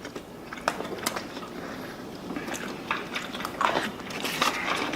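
People biting and chewing food close to the microphone, with scattered small clicks and mouth smacks.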